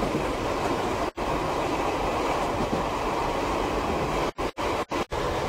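Steady running noise inside a moving Tobu 5700 series electric train car, a continuous rumble with most of its weight in the low range. The sound cuts out for an instant once about a second in and four times near the end.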